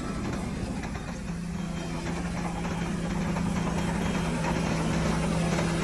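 Heavy diesel engine of earthmoving machinery running steadily, a low drone that grows slightly louder through the second half.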